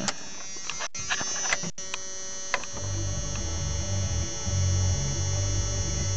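The 1993 Dodge Ram D250's 5.9-litre Cummins turbo diesel idling just after a cold start, through a straight-piped 4-inch exhaust, with a steady buzz and a low pulsing rumble. The idle runs a little low even though it is adjusted as low as it will go. The rumble grows louder and heavier about two and a half seconds in.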